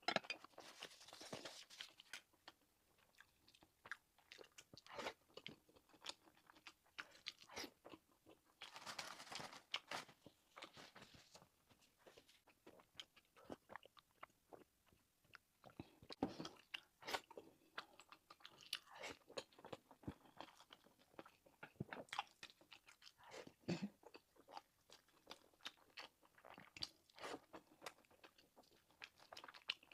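Quiet close-up chewing and biting of fried rice and sausage: a string of small sharp wet clicks and crackles. There are denser bursts of crunching about a second in and again around nine to eleven seconds in.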